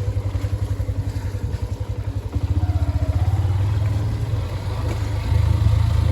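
A vehicle engine running under load with a low, rapid throb, growing louder about two seconds in and again near the end.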